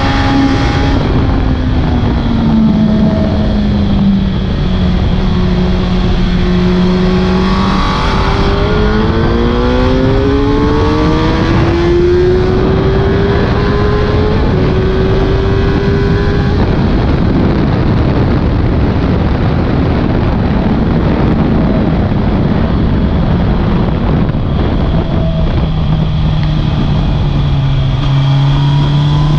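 Suzuki GSX-R 1000 K6 inline-four at speed on track, under a heavy rush of noise. The engine note drops early on, then climbs in steps as it accelerates up through the gears about a third of the way in, eases off into the noise, and settles at a lower steady pitch near the end.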